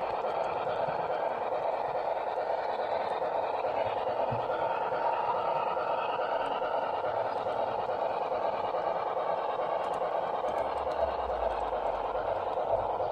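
HO-scale model train running on the layout: a steady, even running noise that holds without a break.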